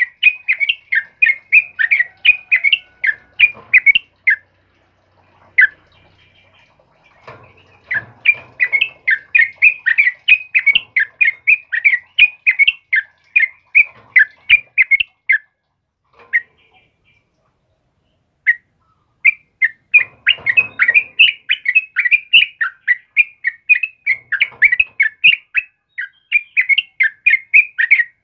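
Trucukan (yellow-vented bulbul) singing a rapid run of loud chattering notes, about four a second, broken twice by pauses of a few seconds before the song starts again.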